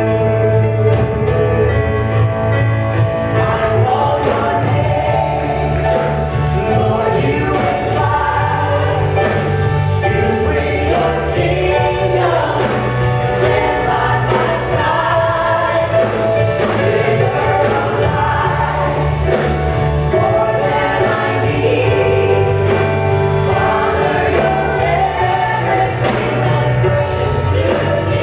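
Church choir singing a gospel song with band accompaniment: sustained choral voices over a steady bass and a regular beat.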